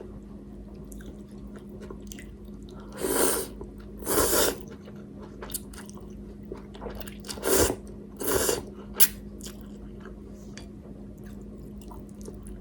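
Close-up eating of spicy instant ramen: soft chewing and small mouth clicks, broken by four short, loud slurps of noodles. A faint steady hum sits underneath.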